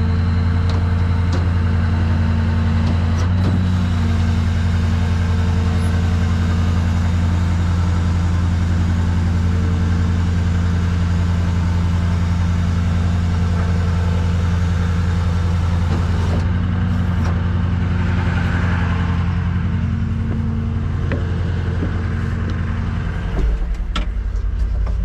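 Rollback tow truck's engine running steadily at a constant speed. About 23 seconds in its note drops lower.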